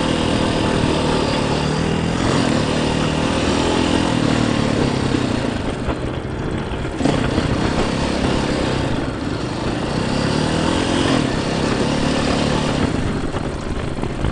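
Dirt bike engine revving up and easing off several times, the pitch climbing and falling as the throttle is opened and closed. A sharp knock sounds about seven seconds in.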